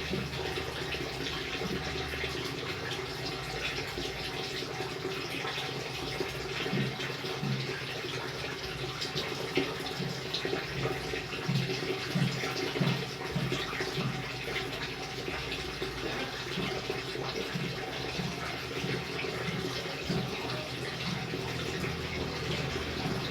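Steady rain falling and splashing in an even wash of water noise, with scattered brief louder splashes.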